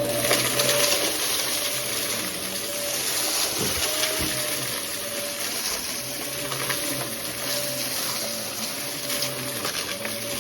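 Vacuum cleaner running steadily with a motor hum and strong airflow hiss, with a couple of brief low knocks about four seconds in.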